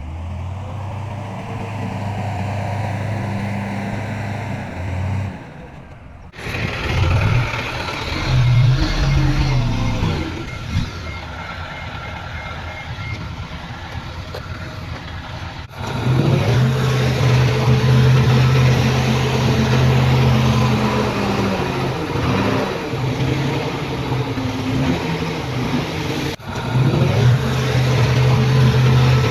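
Heavy diesel engines of earthmoving machines running, with the pitch rising and falling as they work. The sound changes abruptly three times, about 6, 16 and 26 seconds in.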